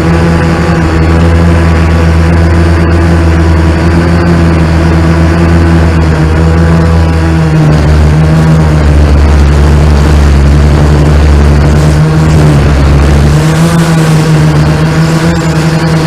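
Multirotor drone's motors and propellers humming loudly and steadily, the pitch shifting slightly about halfway through and again near the end as the drone changes speed.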